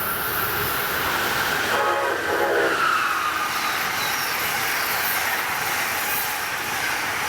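Amtrak Northeast Regional passenger train passing through the station at speed, its wheels on the rails making a steady loud rush. Its horn sounds briefly about two seconds in.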